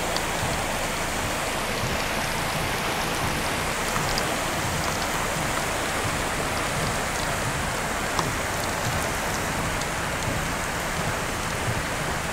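Torrential rain pouring down steadily, with scattered sharp ticks of drops striking close by.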